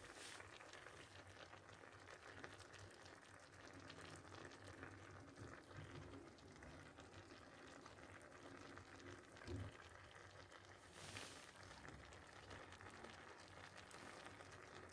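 Faint sizzling and simmering of a clay tajine cooking over hot charcoal, the vegetables inside giving off their own liquid.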